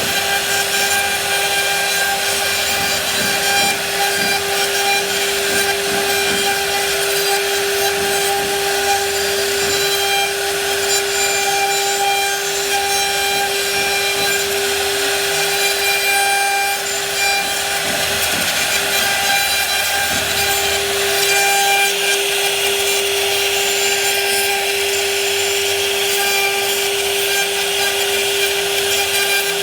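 A power tool's motor running with a steady whine while cutting into wood, with a scratchy rasping under it. The whine wavers briefly about two-thirds of the way through.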